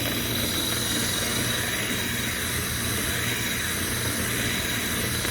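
Power drill running steadily, spinning a rotary dryer-vent cleaning brush on extension rods inside the vent duct: a continuous whirring hiss with a high steady whine.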